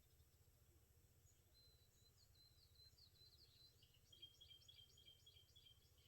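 Faint bird song: a high held whistle, then a quick run of short repeated chirps in the second half, over a low steady hum.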